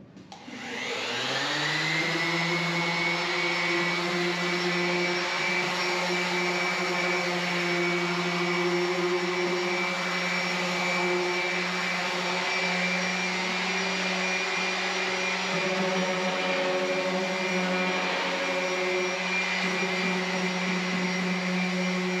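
A motor-driven machine switches on, spins up over about a second and a half, then runs steadily with a high whine.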